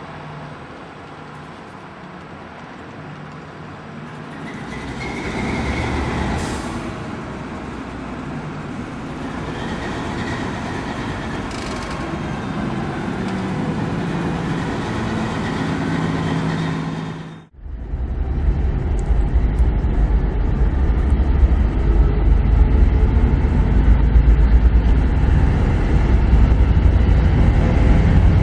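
TEP70 diesel locomotive engine (16-cylinder Kolomna diesel) running and building in power, its rumble growing louder a few seconds in. About two-thirds through it cuts off abruptly into a louder, deeper engine throb from another recording.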